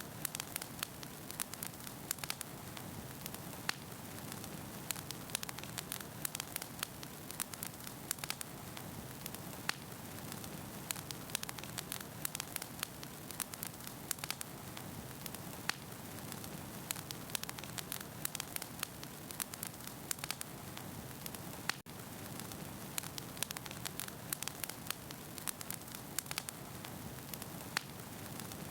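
Wood fire burning, with frequent irregular crackles and pops of firewood over a soft steady hiss. The sound dips out for an instant about three-quarters of the way through.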